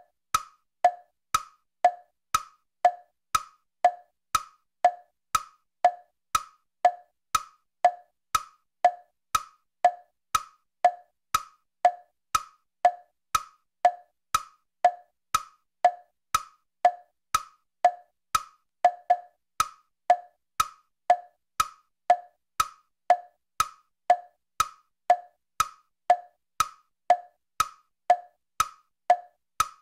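Ticking clock sound effect: a steady tick-tock, about two clicks a second alternating between a lower and a higher pitch, marking off the seconds of a countdown timer.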